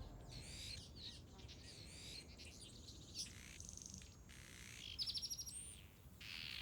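Rüppell's weavers chirping and chattering faintly: a string of short, high calls, with a quick run of rapidly repeated notes about five seconds in.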